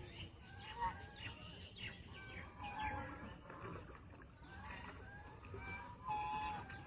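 Ducks calling in an unusual way: a busy run of short, high, chirpy calls, some sliding in pitch, with a longer, louder held call near the end.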